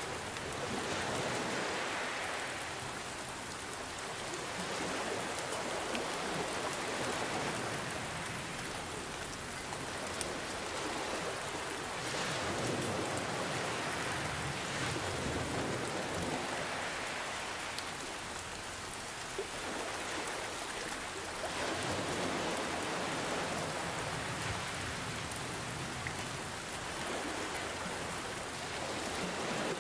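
Steady rain falling, with ocean waves swelling and receding every few seconds under it.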